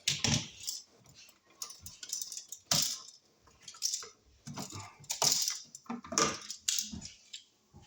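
Irregular metal clinks and knocks: small tools and receptacle hardware being handled during wiring work, several sharp taps with short pauses between.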